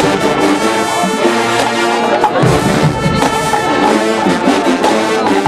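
A college marching band's brass section playing loudly, with trombones and trumpets holding chords over a steady drumline beat.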